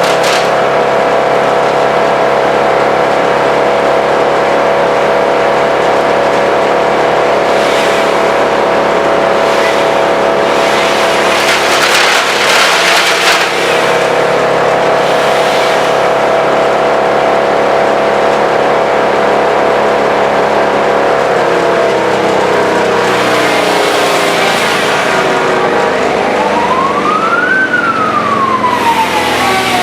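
Vermeer BC1000 wood chipper running steadily at high speed, with several bursts of rushing, crackling noise as material goes through. About two-thirds of the way in, the engine's pitch drops, and near the end a siren wails up and down.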